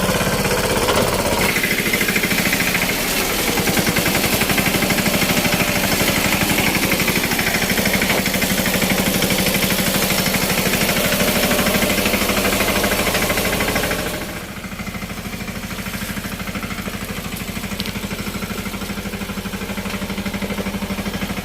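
Mini tractor engine running with a fast, even knocking beat. It turns noticeably quieter about two-thirds of the way through.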